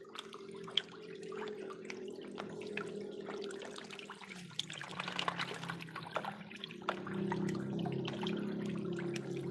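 Water trickling and dripping, with many small irregular drops and splashes over a steady low hum.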